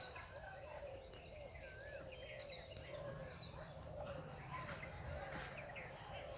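Birds calling, with many short chirps and gliding whistled notes one after another, over a steady low background rumble.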